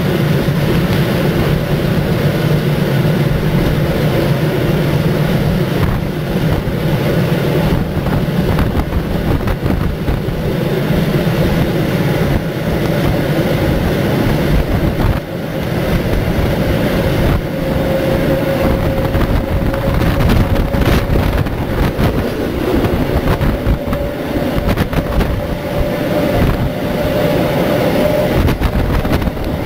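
Heritage steam train's carriages running steadily on the rails, heard from on board while crossing a high bridge. A faint steady whine joins in over the second half.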